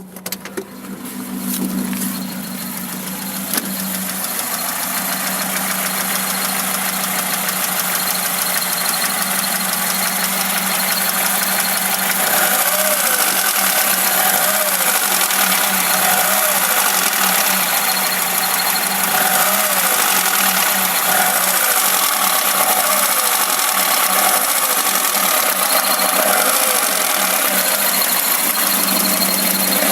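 VAZ classic (Zhiguli) inline-four engine running up in the first couple of seconds, then idling; from about halfway through the throttle is blipped and released over and over, about once every second and a half, revs rising and falling. On each lift-off the engine knocks, a knock of unknown cause that persists with the timing chain tensioned and the valves adjusted, and that the owner says almost disappears at operating temperature.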